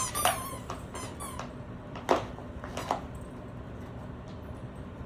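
A Great Dane giving a brief high whine in the first half second, then two short snuffles, about two and three seconds in.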